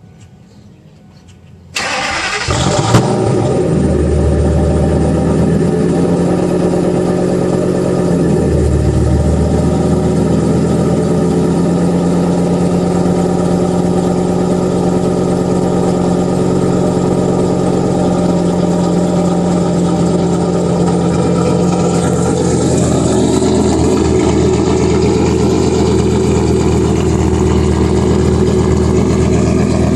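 Ford Triton 6.8L V10 cranked over and started about two seconds in, then idling steadily through an Aero Turbine AT3030 muffler and 3-inch stainless side-exit exhaust. The idle settles to a slightly lower, smoother tone about eight seconds in.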